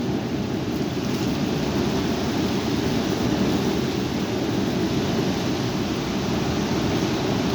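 High wind blowing steadily, with a low rumble of wind on the microphone.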